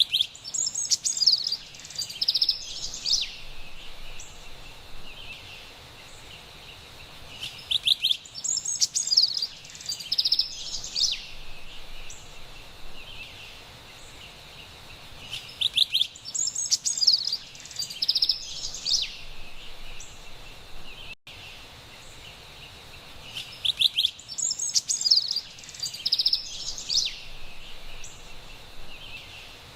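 Carolina wren singing: a burst of rapid, loud, whistled phrases lasting about three seconds, returning every eight seconds, four times in all, over a faint steady background.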